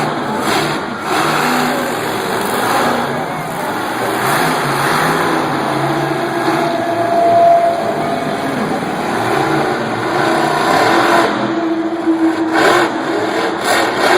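Monster truck's supercharged V8 engine revving and accelerating, the pitch rising and falling, with a held high rev about halfway through and another near the end.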